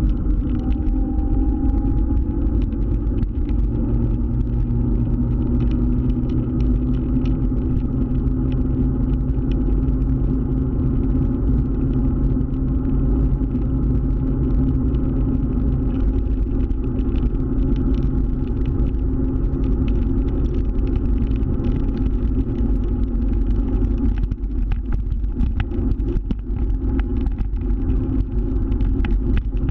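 Scooter engine running at a steady speed while riding, a steady low engine note with no marked revving.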